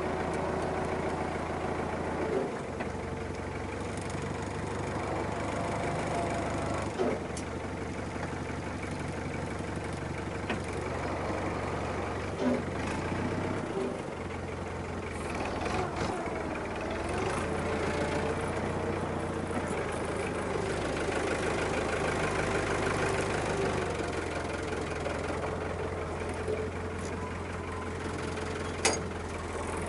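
Farm tractor's diesel engine running steadily, its pitch rising and falling briefly in the middle, with a few sharp knocks.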